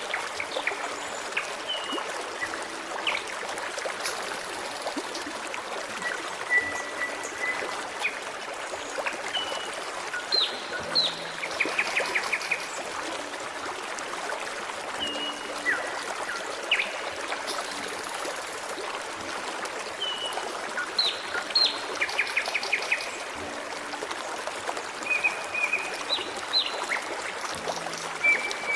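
Forest stream babbling steadily, with birds singing over it: short whistled notes and quick trills every few seconds.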